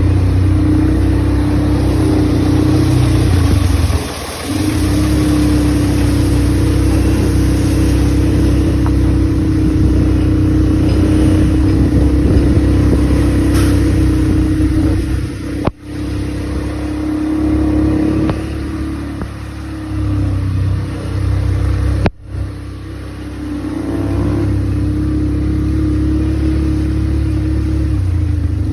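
ATV engine running steadily under way, with brief dips in revs and two instant cut-outs in the second half.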